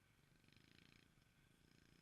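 Near silence: faint background noise with a low rumble and a soft hiss that swells briefly about half a second in.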